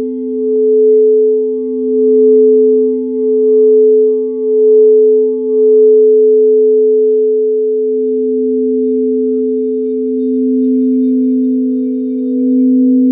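Two singing bowls ringing together at two steady pitches, both almost pure tones. The higher one wavers in a slow wah-wah pulse about once a second for the first half, then settles into a smooth sustained ring.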